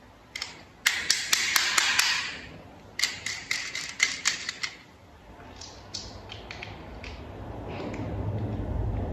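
Rapid runs of sharp clicks from small toy vehicle parts being handled and snapped together. There are two quick bursts in the first five seconds, then fainter scattered clicks.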